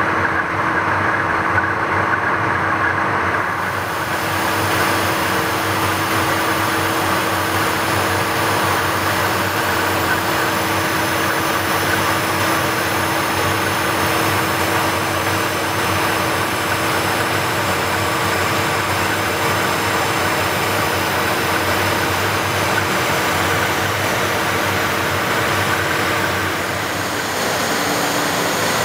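Steady in-flight cockpit noise of a Learjet 35: airflow hiss over the fuselage and the drone of its twin turbofan engines, with a few steady hum tones. The hiss grows brighter a few seconds in, and one hum tone shifts near the end.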